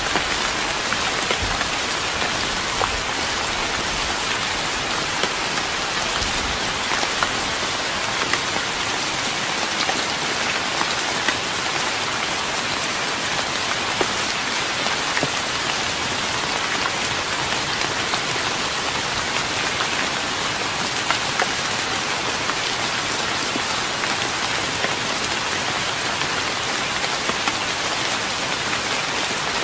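Steady rain pattering on a wooden deck, a dense even hiss speckled with small sharp drop ticks, with a few soft low thuds in the first few seconds.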